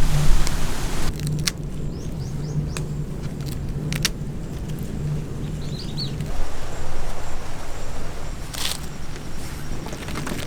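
Outdoor ambience: a steady motor hum that stops about six seconds in, with a few light clicks and brief bird chirps twice.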